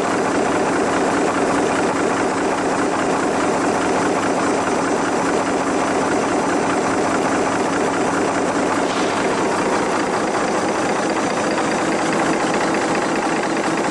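Permanent-magnet drum-and-piston engine rig running steadily with its pulleys turning: a continuous, dense mechanical clatter.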